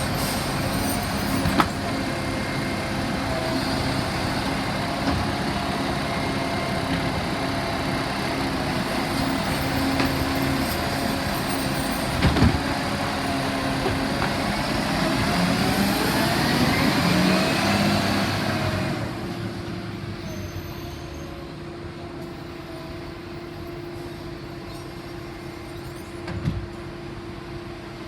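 Garbage truck engine and hydraulics running, with a few sharp knocks. The engine note rises in pitch for a few seconds about two-thirds through, then falls away to a quieter steady hum.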